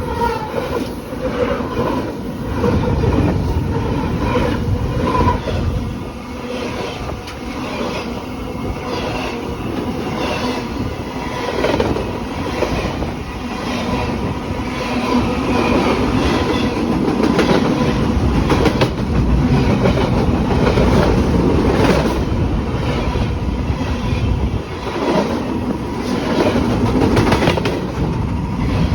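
Train rolling past, its wheels clacking over rail joints in a steady, repeated rhythm over a continuous rumble.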